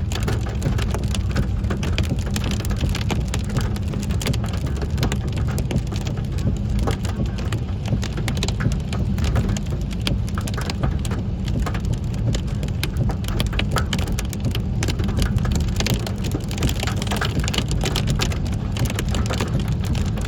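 Hail and heavy rain pelting down: a dense, continuous patter of sharp impacts over a steady low rumble.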